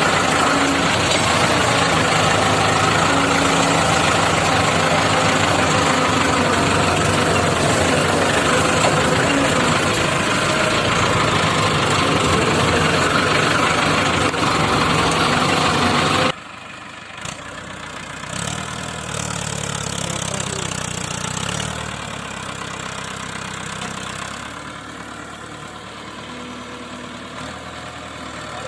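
Tractor engine running loud and rough, then about halfway through it drops suddenly to a quieter, steadier engine note.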